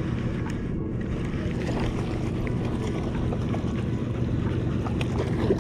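Wind buffeting the microphone over water lapping around a kayak, a steady noisy rush with a faint low hum beneath it.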